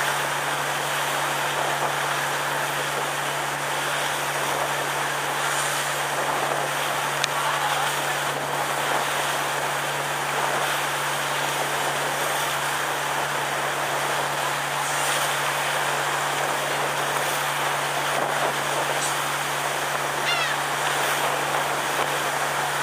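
Sightseeing cruise boat under way: a steady low engine hum under constant rushing noise. A brief high gliding call comes near the end.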